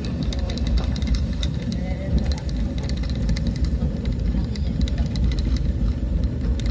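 Vehicle travelling along a rough road: a steady low rumble with frequent small rattles and knocks.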